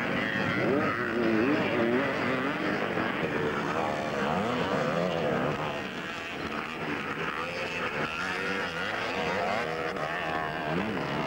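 Several vintage 250cc two-stroke motocross bikes racing, their engine notes rising and falling as the riders rev through the course, overlapping one another.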